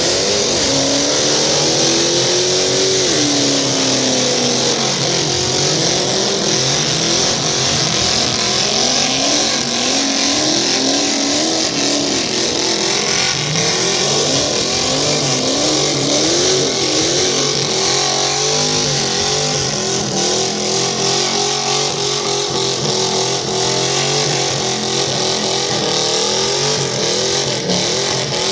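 A car or truck engine revving hard, its pitch rising and falling over and over, over a steady high hiss that is typical of spinning tyres in a burnout.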